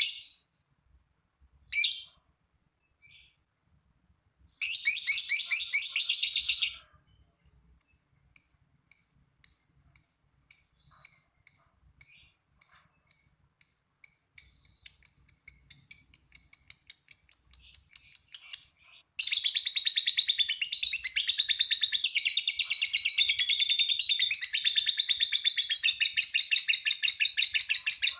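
Lovebird 'ngekek' song: a few separate high chirps and a short rapid chatter, then spaced chirps that speed up into a trill. About two-thirds in comes a long unbroken, loud chattering trill, the long ngekek that lovebird keepers prize.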